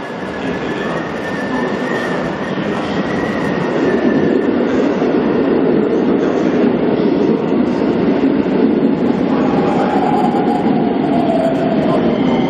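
Keikyu electric train running alongside the platform on the near track, its wheel and running noise growing loud from about four seconds in. Near the end a motor whine falls steadily in pitch as the train slows.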